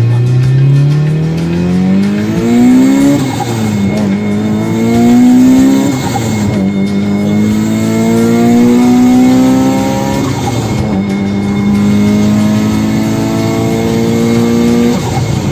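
Mitsubishi Lancer Evolution's turbocharged 4G63T inline-four accelerating hard up through the gears: the engine note climbs steadily and drops at each upshift, about three, six and ten and a half seconds in, then climbs again.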